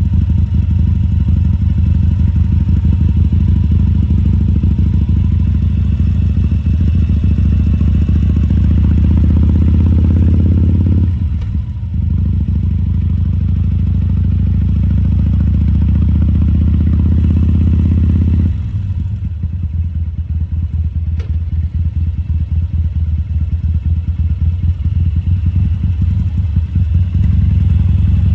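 2014 Harley-Davidson Sportster 1200 Custom's air-cooled Evolution V-twin running at low speed with its uneven firing pulses. It eases off briefly about the middle, drops back for a longer stretch in the last third, then picks up again near the end.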